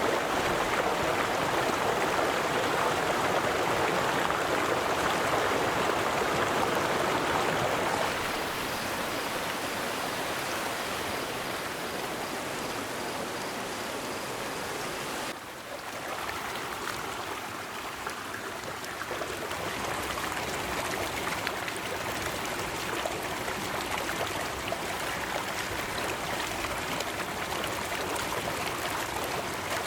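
River water flowing steadily. It turns a little quieter about eight seconds in and dips briefly about halfway through, like a join between recordings.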